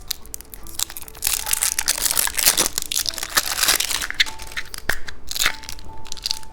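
Plastic candy packaging crinkling and crackling in irregular bursts as the car-key candy is handled and opened.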